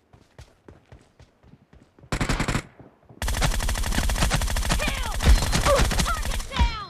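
Video game automatic gunfire: a short burst of rapid shots about two seconds in, then a long burst of rapid fire lasting about three and a half seconds.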